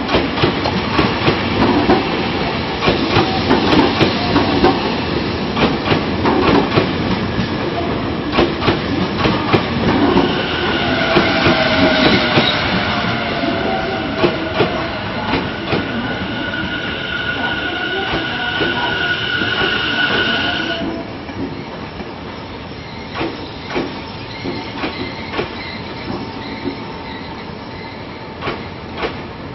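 Tobu 50090 series electric train rolling slowly past over points and rail joints, its wheels clicking and clattering. From about ten seconds in a steady high squeal joins, with a falling tone under it, and the squeal cuts off abruptly a little past the twenty-second mark. Only a lower rumble and scattered wheel clicks remain after that.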